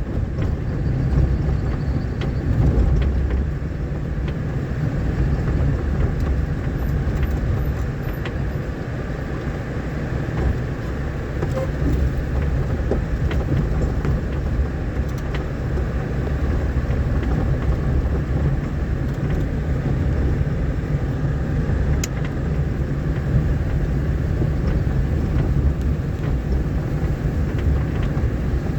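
A vehicle travelling over a rough dirt road: a steady low rumble of engine and tyres, with a few faint knocks.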